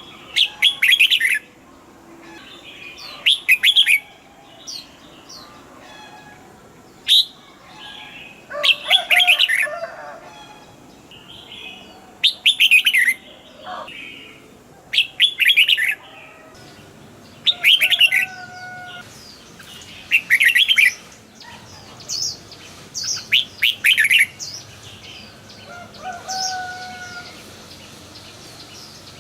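Red-whiskered bulbul singing: short, bright chirping song phrases repeated about every two to three seconds.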